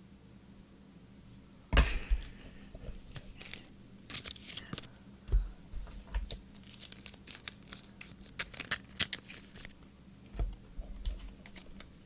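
Trading-card pack wrappers and cards being handled: paper and foil tearing and crinkling in short, crisp bursts, with a sudden loud crackle about two seconds in.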